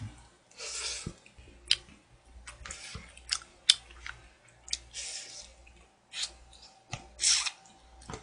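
A person chewing food close to the microphone, with sharp clicks of wooden chopsticks against a plastic takeout tray scattered throughout.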